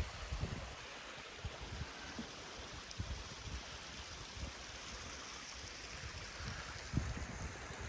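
Steady faint rushing noise like running water from a stream, with a few soft low thumps scattered through it.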